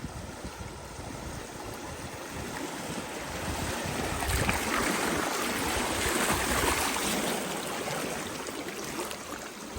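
River water rushing past a bamboo raft, swelling louder for a few seconds mid-way before easing off.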